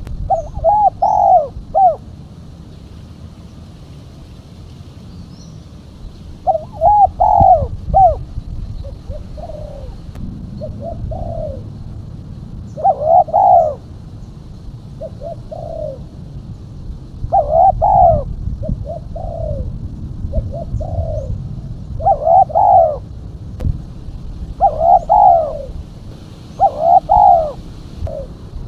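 Female spotted dove cooing in short phrases of a few notes, repeated every couple of seconds. This is the call used as a lure to draw in spotted doves. A steady low rumble of background noise lies under it.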